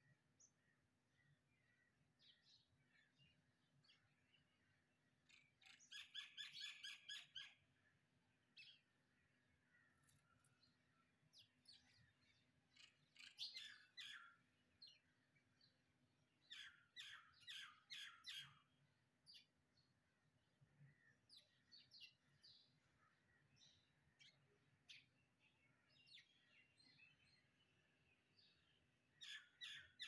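Small birds chirping faintly. The chirps come in several quick runs of rapidly repeated notes, with single chirps scattered between them.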